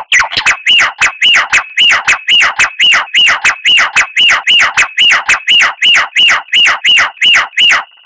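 A songbird's call repeated rapidly and evenly, about three sharp descending notes a second, over a steady high whistle. The series cuts off near the end.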